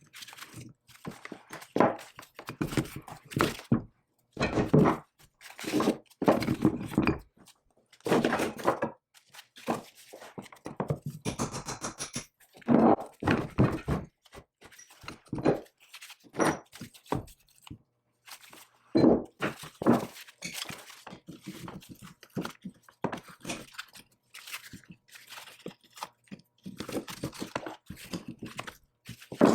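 Workshop sounds of metal parts and tools being handled: irregular knocks and thunks mixed with short scraping and rubbing, at no steady rhythm.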